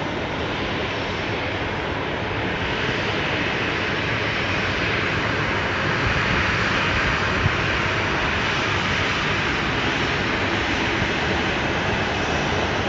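Jet engines of a Boeing 737-700 (CFM56-7B turbofans) on a landing airliner: a steady jet noise that swells a little about a third of the way in and holds.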